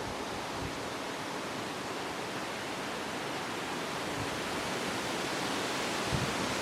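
Wind blowing steadily through tree foliage: an even rushing hiss that swells slightly toward the end, with little buffeting on the microphone.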